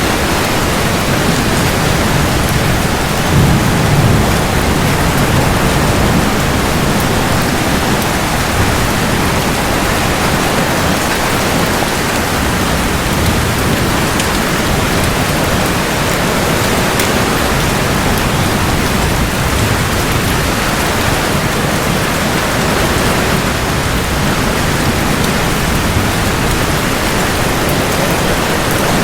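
Steady heavy rain falling, with a brief low rumble of thunder about four seconds in.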